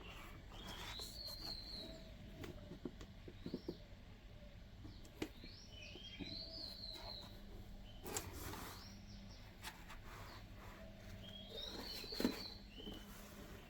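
Faint bird song: a short high phrase of chirps and a trill, repeated about every five to six seconds. Scattered light clicks and taps sound over it.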